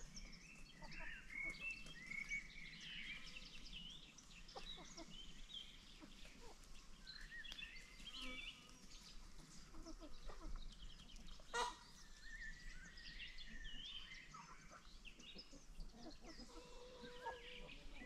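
Several wild birds calling and chirping at once in a forest, faint, with short rising and falling calls overlapping throughout. A single sharp click about two-thirds of the way through.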